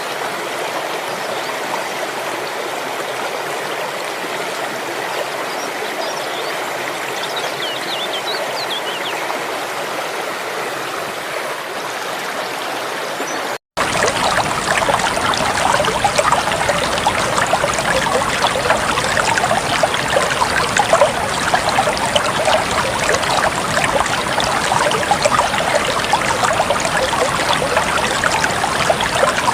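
Steady rush of running stream water, with a few faint high chirps about eight seconds in. After a short break about halfway through, a louder, fuller rush of water takes over.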